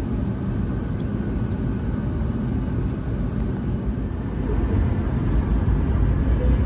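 Boeing 757-200 jet airliner heard from inside the cabin: a steady low rumble of engines and airframe that grows louder about four and a half seconds in.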